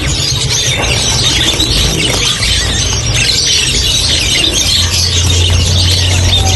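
A group of parrots calling over one another: dense, overlapping high chirps and chatter. A steady low hum runs underneath and grows stronger near the end.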